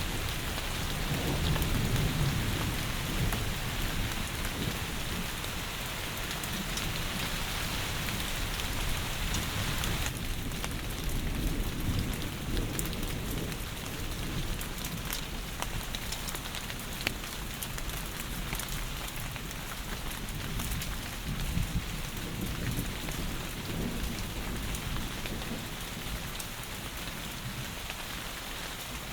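Heavy rain pouring steadily, with low rolls of thunder rumbling under it. About ten seconds in, the rain's texture changes from a dense wash to sharper, more separate drop ticks.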